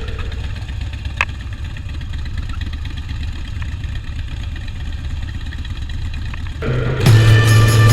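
Motorcycle engine running with a steady low rumble, with a single sharp click about a second in. Music with a heavy bass note comes in near the end and drowns it out.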